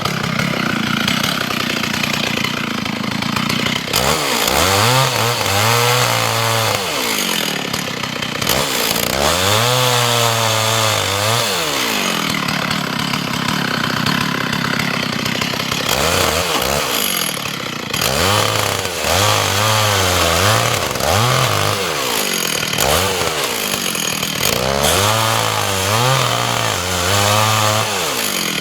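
Gasoline chainsaw cutting the felling notch into a dead hemlock trunk. The engine revs up to full speed and holds there for a few seconds about five times, dropping back toward idle between cuts.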